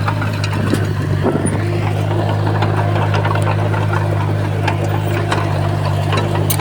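Crawler bulldozer's diesel engine running steadily, with scattered sharp clicks and clanks over it.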